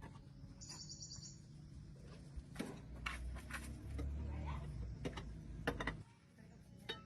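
A bird's short chirping trill about a second in, followed by a few sharp clicks and knocks over a low steady hum.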